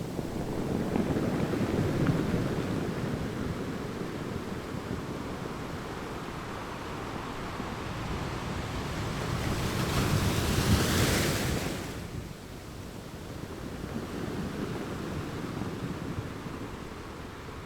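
Ocean surf on a beach, the noise of the waves rising and falling. A bigger wave breaks about ten seconds in with a bright hissing wash, then recedes.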